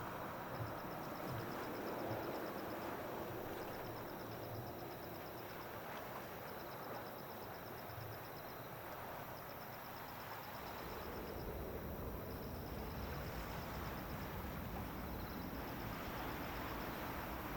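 Insects trilling in repeated quick pulsed bursts over a steady outdoor hiss, with the low rumble of an approaching jet airliner building from about two-thirds of the way through.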